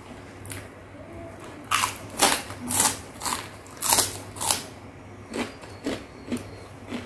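Close-miked mukbang eating of rujak cingur: a quick run of loud, sharp biting and chewing sounds starting about two seconds in, easing to softer, spaced-out chews near the end.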